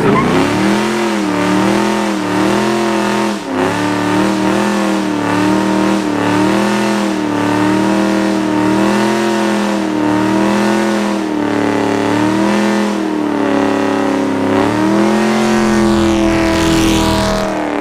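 Cammed 6.0 L LS2 V8 of a 2006 Pontiac GTO idling with a lumpy cam thump, its pitch rising and falling in a steady rhythm. Near the end the engine note climbs a little before settling.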